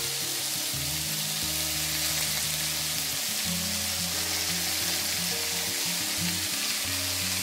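Hot oil sizzling steadily in a wok as drained, marinated shredded beef goes in on top of frying green pepper, chili and spring onion, with soft background music underneath.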